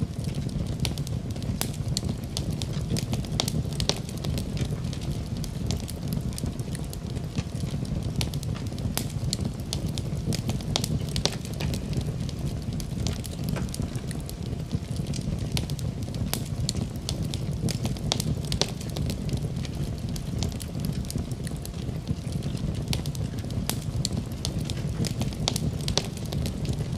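Wood fire crackling in a fireplace: a steady low rumble of flames with many sharp pops and snaps at irregular intervals.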